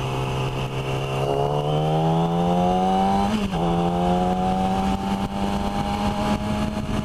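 Motorcycle engine pulling under acceleration, heard from the rider's seat: its pitch climbs steadily, drops sharply about three and a half seconds in as it shifts up a gear, then climbs again, over wind noise.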